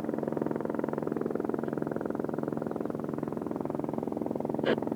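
Airbus AS350B3 helicopter running: an even, rapid rotor beat over the steady hum of its turbine. A brief click comes near the end.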